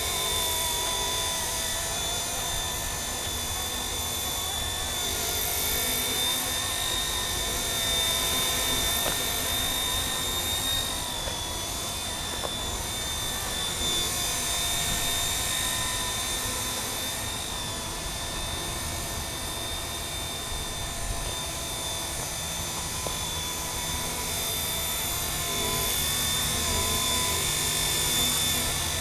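Radio-controlled MD 500 scale model helicopter in flight: a steady high-pitched motor whine over the rotor noise, wavering slightly in pitch as the throttle shifts.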